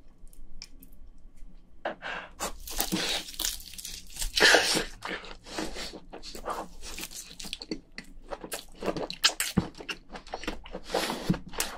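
A person chewing and eating soft crayfish meat dipped in cheese sauce: wet mouth clicks and squelches, with a few louder noisy bursts about three and four and a half seconds in.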